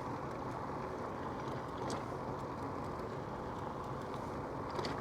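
Steady rushing wind and tyre noise from riding a pedal-assist electric bicycle, with a couple of faint light clicks about two seconds in and near the end.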